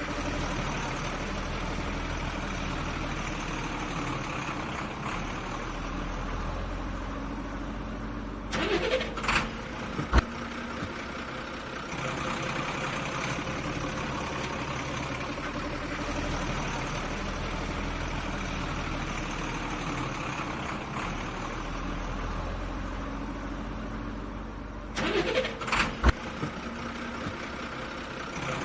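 Steady engine idling sound, with a brief louder burst and a couple of sharp clicks about a third of the way in, and again the same way near the end.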